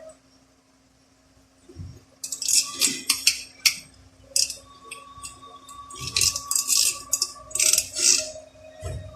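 Small metal parts clinking and rattling in a quick irregular run as transmission pieces are handled on the bench, starting about two seconds in, over a faint steady hum.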